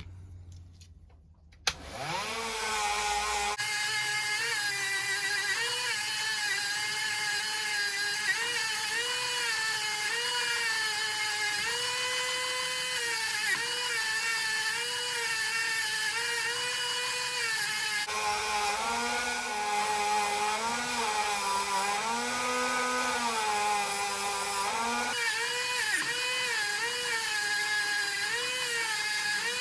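Small high-speed rotary tool running steadily with a whine, its pitch repeatedly dipping and recovering as it is pressed against the work. It starts up about two seconds in.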